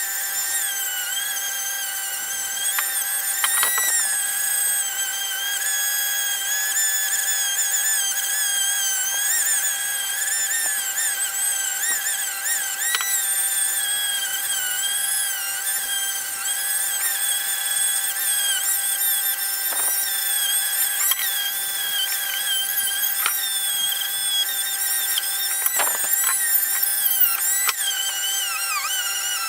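A small power tool running under changing load, its high whine wavering in pitch, with a steady hum underneath and a few sharp clicks or knocks.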